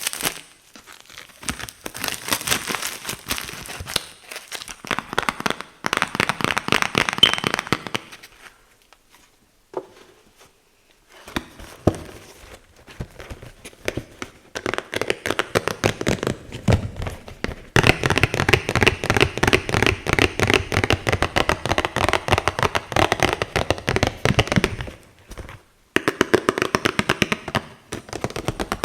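Fingernails tapping and scratching rapidly on cardboard boxes, in bursts of fast clicks with a pause about a third of the way in.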